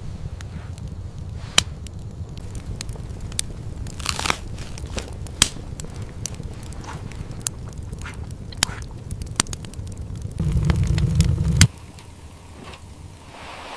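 Irregular sharp crackles and snaps over a steady low rumble; the rumble swells near the end and then cuts off suddenly.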